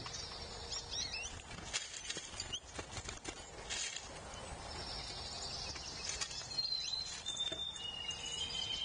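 Songbirds chirping and calling at a feeder, with short high chirps and a longer whistled note near the end, over scattered sharp clicks and rustles of feeding.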